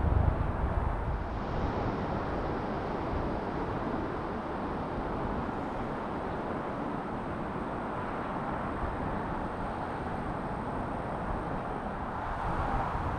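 Boeing 747 jet engines passing low overhead on landing approach: a loud low rumble at first that eases within a couple of seconds into a steady roar of jet noise.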